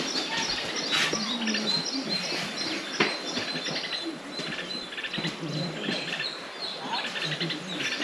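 Wild birds chirping and calling over and over in woodland, with a sharp click about a second in and a louder one about three seconds in.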